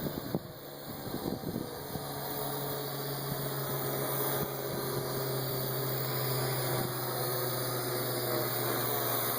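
Parrot AR Drone 2.0 quadcopter's four motors and propellers humming steadily in flight, growing slowly louder.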